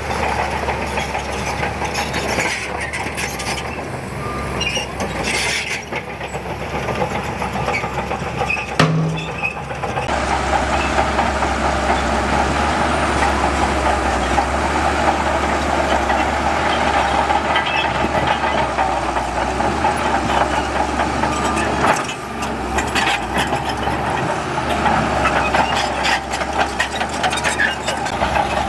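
Heavy diesel earthmoving machinery, a dump truck and bulldozer, running steadily under load. The sound breaks off and changes abruptly about nine to ten seconds in and again a little past twenty seconds.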